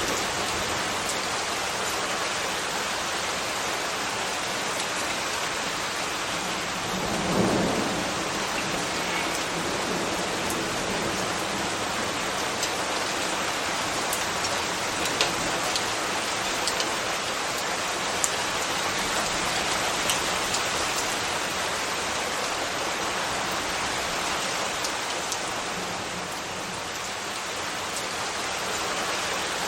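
Steady rain falling as an even hiss, with scattered faint drop ticks. A brief low swell comes about seven seconds in.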